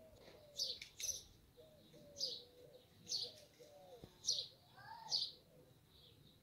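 Songbirds calling: short high chirps repeating about once a second, with softer, lower notes in between.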